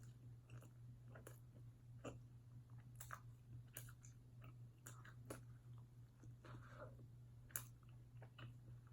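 Faint close-miked mukbang chewing: a person chewing a mouthful of burger, with soft wet mouth clicks and smacks every second or so and one sharper click near the end.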